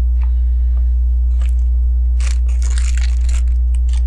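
Plastic Lego pieces clicking and rattling as they are handled, with a few single clicks and then about a second of dense crunchy rattling in the middle, over a steady low electrical hum.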